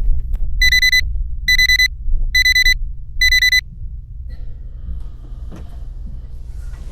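Four evenly spaced high electronic beeps, just under a second apart, over the steady low rumble of a vehicle engine; after the beeps only the rumble goes on.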